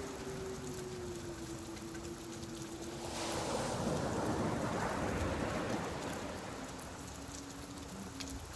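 Rain falling on a beach with ocean surf, a steady hiss that swells for a few seconds about three seconds in as a wave comes in. A faint steady hum sits under it for the first few seconds.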